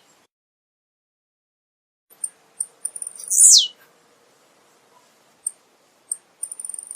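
Male blue-black grassquit (tiziu) singing. After a short silence come a few sharp, very high chips, then a loud buzzy note sweeping steeply down in pitch, about three and a half seconds in. More chips near the end lead into the next song.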